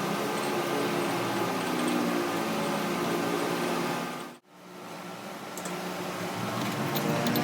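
A steady machine hum with several held tones. It cuts out abruptly about four and a half seconds in, then builds back up.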